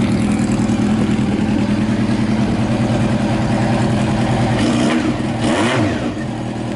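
Honda CB750's air-cooled inline-four engine idling steadily, then given a short blip of the throttle near the end, the revs rising and falling back.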